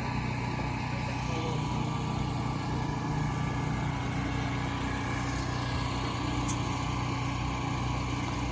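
Portable generator engine running steadily at a constant speed, a loud, even drone that does not rise or fall.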